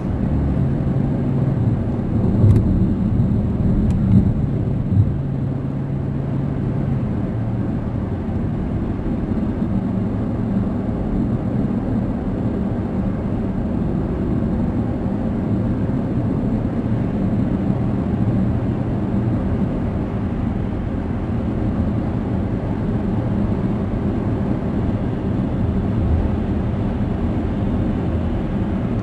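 Steady road and engine noise inside a moving car's cabin: a continuous low drone of tyres and engine. A few light clicks or knocks come about two to five seconds in.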